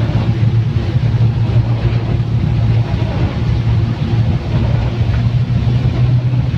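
Car engine running steadily while driving, a low hum under a constant hiss of rain and road noise.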